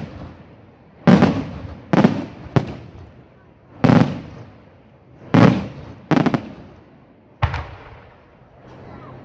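Firework shells bursting in a display: about eight loud bangs in quick succession, roughly one a second with a couple close together, each trailing off in an echo, then a quieter stretch near the end.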